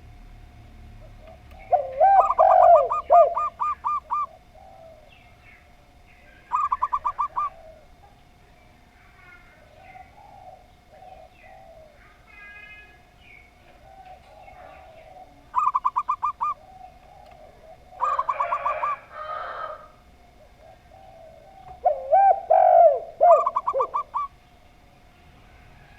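Zebra dove (perkutut) and spotted dove (tekukur) calling in turn. There are about five bouts: the zebra dove gives quick runs of short, even cooing notes, and the spotted dove adds lower, gliding coos near the start and again near the end.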